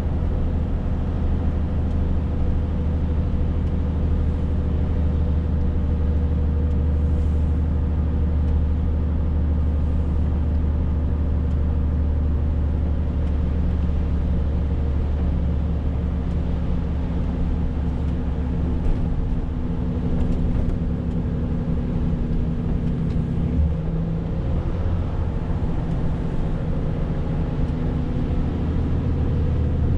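Renault T520 truck's diesel engine running steadily while driving, a low drone. A little after three-quarters of the way through, the engine note shifts briefly.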